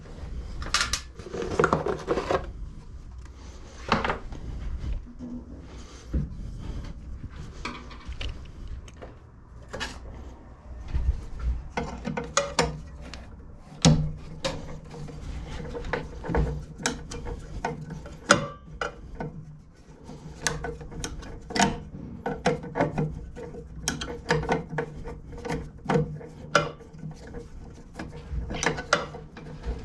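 Hand tools and metal parts clicking, knocking and rattling, irregularly and sometimes in quick runs, as a walk-behind lawnmower's front height adjuster is worked on.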